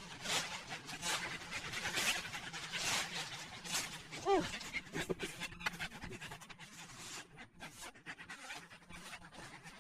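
A bully-breed dog panting, short breathy puffs that come about once a second at first, then quicker and fainter.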